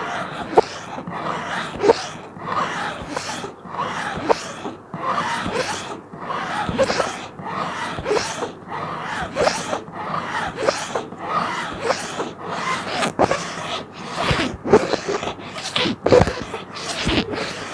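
Plastic sheet being scratched, likely by fingernails, in repeated rasping strokes about one or two a second, with occasional sharp clicks.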